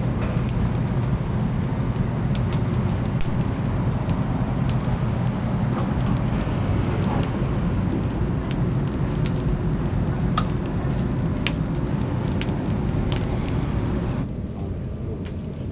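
Oak firewood burning in a wood-fired chicken rotisserie, crackling with scattered sharp pops over a steady low rumble. About fourteen seconds in the sound turns duller and a little quieter.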